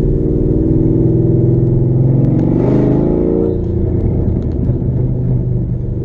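Ford Shelby GT500's supercharged V8 running steadily. About two and a half seconds in, its note rises as it revs, then settles back lower.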